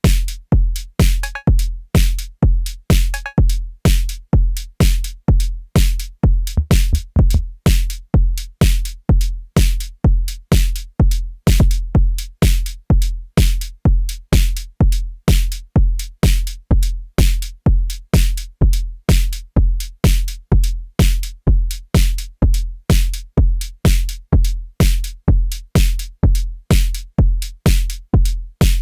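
Arturia DrumBrute Impact analog drum machine playing a steady pattern: a deep kick drum about twice a second with bright hi-hat hits. A few short pitched percussion notes sound about a second and three seconds in.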